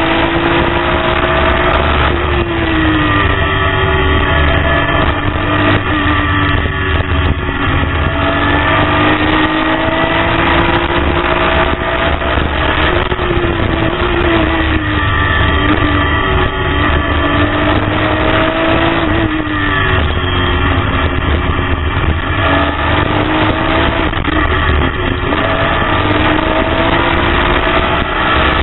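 BMW race car's engine heard from inside the car at racing speed, its pitch climbing through each gear and dropping sharply at each shift, several times over, above a steady low road rumble.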